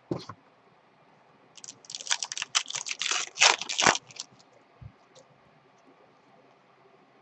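Trading-card packaging handled at the table: one short knock at the start, then a rapid run of crisp crackling clicks lasting about two and a half seconds, loudest just before it stops.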